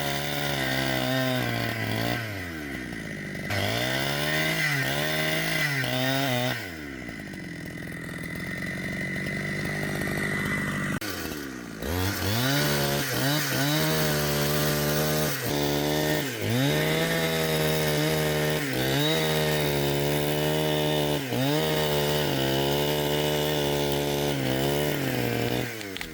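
Two-stroke chainsaw cutting wood at high revs, its pitch dipping and recovering again and again. About a quarter of the way in it drops back to idle for several seconds, then goes back to full throttle, and it dies away near the end.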